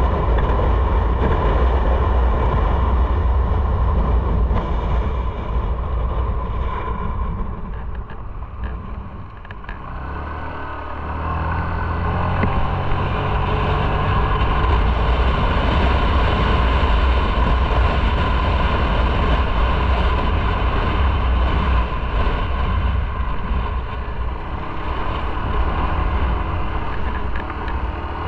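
Motorcycle on the move, with heavy wind rumble on the on-board microphone over the engine. The noise eases off about eight seconds in, then the engine note comes through and the wind builds again as the bike picks up speed.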